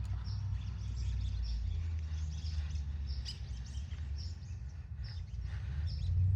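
Small birds chirping, short high-pitched chirps repeating about once or twice a second, over a steady low rumble.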